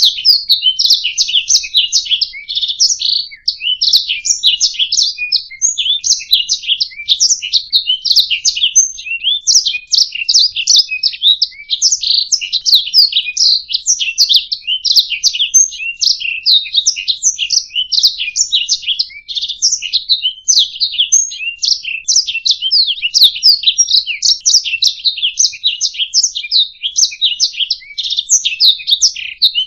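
Domestic canary singing a long, unbroken song of rapid chirps, trills and rolls, high-pitched and dense throughout.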